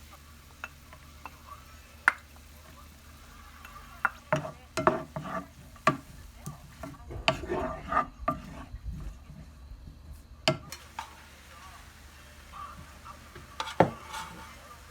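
Kitchen cooking sounds: a utensil stirring and knocking against a pot or pan, with scattered sharp clinks that come thickest in the middle.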